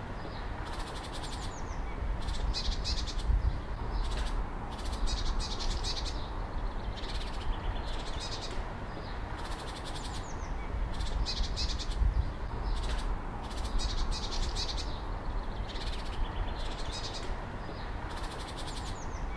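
A songbird singing short phrases of rapid high notes, repeated every couple of seconds, over a steady low rumble and hiss.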